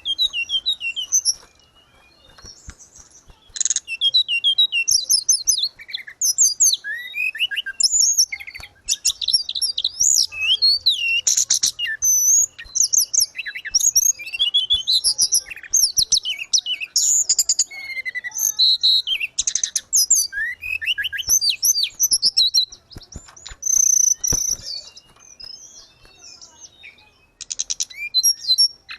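A tledekan gunung singing a loud, fast, varied song of chirps, whistled glides and rapid trills, almost without pause. It is the 'gacor' full song that is played to train caged tledekan or to coax silent ones into singing.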